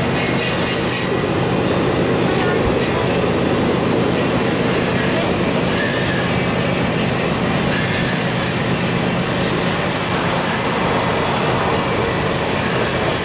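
Circus train's passenger cars rolling past on a curve: a steady rumble of steel wheels on rail, with high wheel squeals coming and going.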